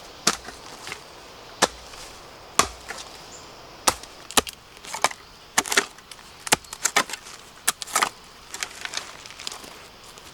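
A blade chopping into bamboo: sharp, separate strikes, about one a second at first, then quicker and more irregular from about halfway on.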